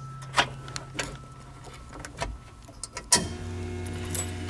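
1JZ-GTE VVT-i inline-six idling steadily, with several sharp clicks over it. About three seconds in a louder click comes and the engine's tone changes.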